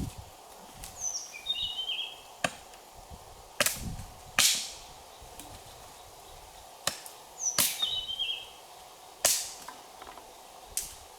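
Sharp chopping strikes on wood, about seven at irregular intervals. A bird gives a short chirping call that falls in pitch, twice, over a faint steady insect drone.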